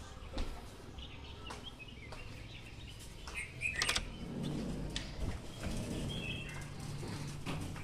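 Birds chirping now and then over a low outdoor background murmur, with a few sharp clicks.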